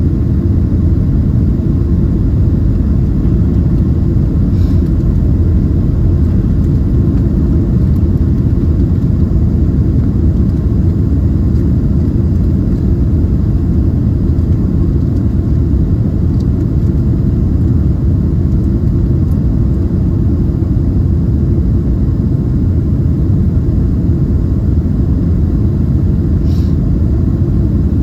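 Steady low cabin rumble inside a Boeing 767-300ER airliner: engine and airflow noise, unchanging throughout, with a couple of faint ticks.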